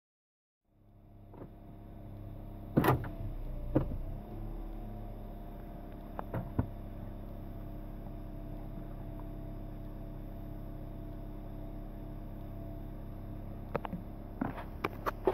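A 2016 Toyota Corolla's 2ZR-FE 1.8-litre four-cylinder engine idling steadily at about 1,000 rpm, warmed up, heard from inside the cabin. It fades in just under a second in. Sharp clicks and knocks come about three and four seconds in, and a cluster of clicks near the end.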